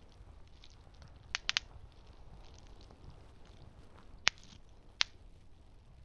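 Campfire burning with a low steady rumble and faint soft crackling, broken by sharp pops from the burning wood: three quick pops about a second and a half in, then two single louder pops near the end.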